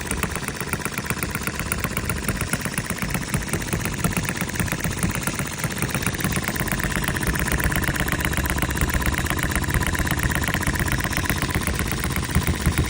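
RETROL HM-01 model hit-and-miss stationary engine running steadily with a fast, even mechanical clatter.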